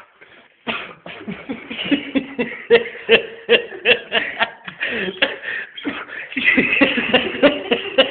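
Rhythmic, non-speech vocal sounds from people: short, voice-like bursts coming several times a second and growing denser after about a second.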